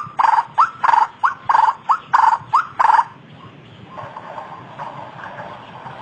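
White-breasted waterhen (ruak-ruak) calling in a fast, harsh series of about three notes a second, short rising notes alternating with longer ones. The series stops about three seconds in and gives way to fainter calling.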